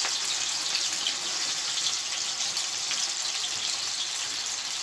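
Chopped onions sizzling as they fry in hot oil in a kadhai: a steady hiss with small crackles.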